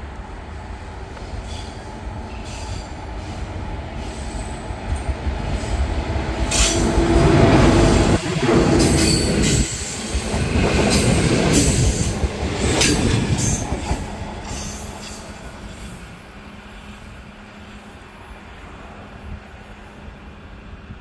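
A passenger train hauled by a 060-EA electric locomotive passes close by, with its wheels rumbling and clattering on the rails and squealing. The noise builds over the first few seconds, is loudest through the middle with several sharp high squeals and clanks, and fades away over the last several seconds.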